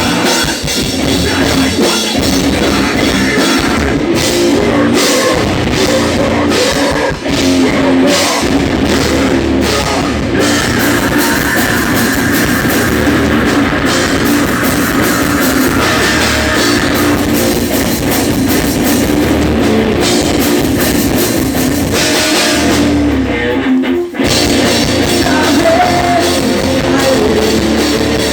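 Pop-punk rock band playing: drum kit, guitars and bass, loud and driving, with a brief stop near the end before the band comes back in.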